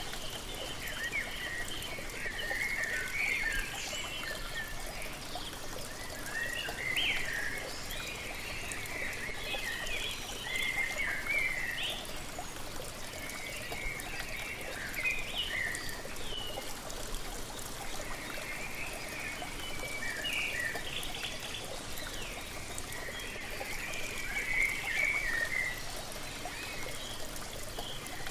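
Steady splashing of a waterfall, with songbirds chirping and singing in short phrases over it.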